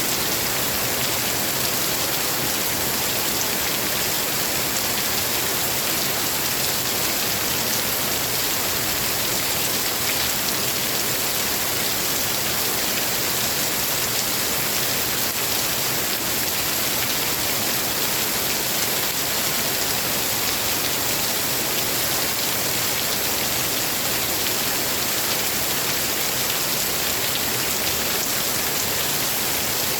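Steady heavy rain falling, an even hiss of many drops on surfaces.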